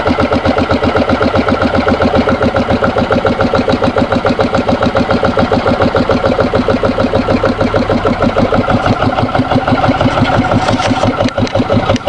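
Yanmar 9 hp single-cylinder air-cooled diesel engine running steadily, its firing strokes an even, rapid beat. It is running well.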